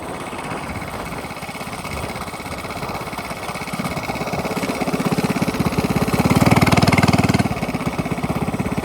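Small minibike engine with a straight-pipe exhaust running, its rapid firing pulses plainly audible. It grows louder about halfway through, is loudest about two-thirds of the way in, then eases off slightly.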